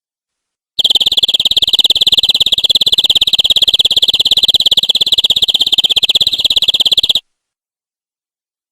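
Domestic canary singing one long, very rapid trill at a steady pitch. It starts about a second in and cuts off suddenly near the end.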